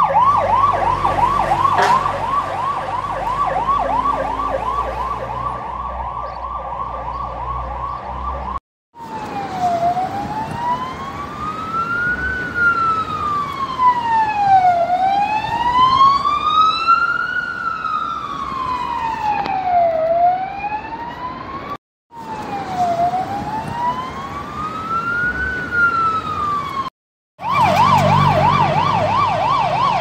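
A run of emergency-vehicle sirens, each cut off abruptly. First a US fire truck's fast yelp siren over a low rumble. About nine seconds in, an old US police car's slow wail rising and falling, which breaks off twice. Near the end an old US ambulance's fast yelp siren over a low rumble.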